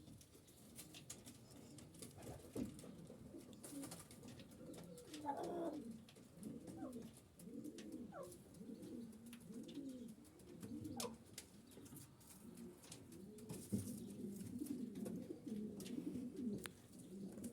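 Domestic pigeons cooing: low, rolling coos that repeat and overlap almost without a break, with a few sharp clicks among them.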